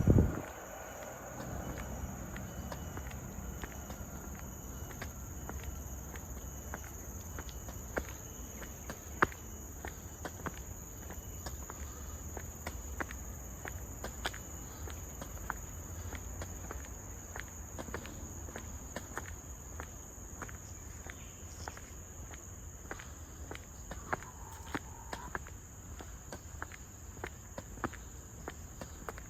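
Steady high-pitched drone of forest insects, with a second, fainter band even higher. Footsteps on a path click along throughout, and there is a brief thump right at the start.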